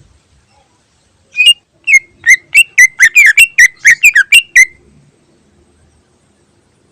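Cucak ijo (green leafbird) singing a quick run of about fourteen loud, sharp whistled notes, each bending in pitch, that comes faster in the middle and stops after about three seconds.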